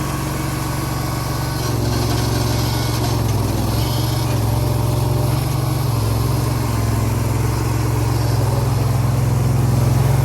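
Diesel engine of a Bobcat 7753 skid steer running steadily; about two seconds in it picks up a little, getting slightly louder with a shift in its note.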